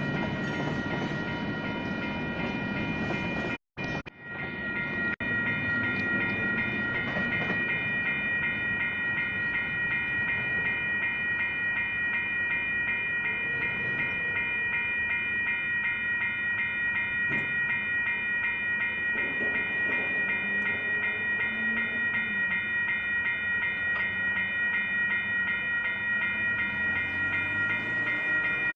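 Railroad crossing signal bells (Western Cullen Hayes Type 1) ringing in quick, even strokes. For the first few seconds they sound over the rumble of a passing train; after a short dropout about four seconds in, the bells ring on their own.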